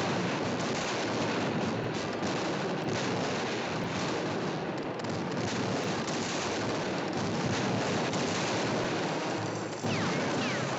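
A long, unbroken din of dense noise from a cartoon sound-effects track, cutting in abruptly. Two quick falling whistles sound near the end.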